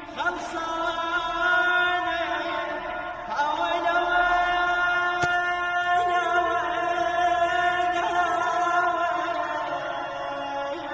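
A man singing alone without accompaniment in long, drawn-out held notes, in a few long phrases, with an echo on his voice.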